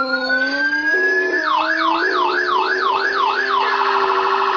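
Electronic emergency-vehicle siren cycling through its patterns: a rising wail, then a quick yelp sweeping up and down about twice a second, then a very fast warble in the second half. A steady lower tone runs beneath it.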